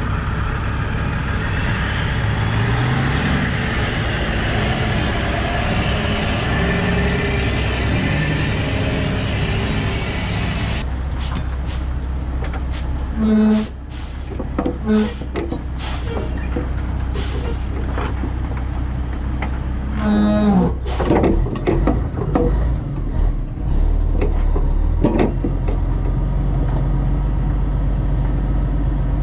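Heavy truck's diesel engine running, its pitch rising and falling for the first ten seconds and then settling to a steady hum. Several short hisses and knocks come through the second half.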